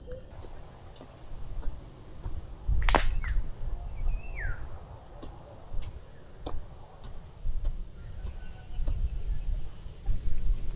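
Outdoor ambience of birds and insects: a steady high-pitched insect drone, with a bird giving short groups of four quick high chirps three times and a downward-sliding call about four seconds in. A sharp sudden sound about three seconds in is the loudest event, over a fluctuating low rumble.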